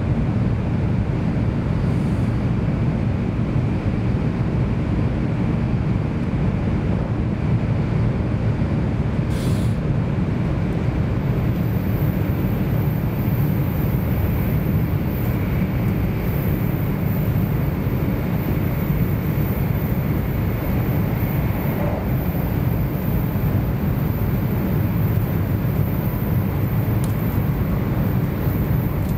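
Steady interior running noise of an N700S series Shinkansen car at speed: an even, low rumble that holds constant throughout, with a couple of faint ticks.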